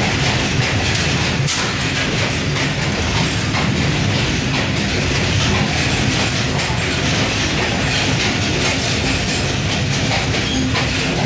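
Passenger train coach running along the track, heard from inside at a window: a steady rumble and rattle of wheels on the rails, with one sharp click about a second and a half in.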